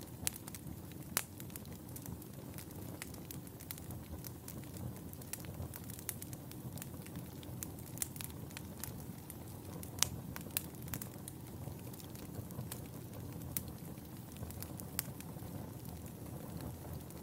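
Wood fire burning in a fireplace: a steady low rumble of flames with frequent sharp crackles and pops scattered at irregular intervals, the loudest about a second in and near the middle.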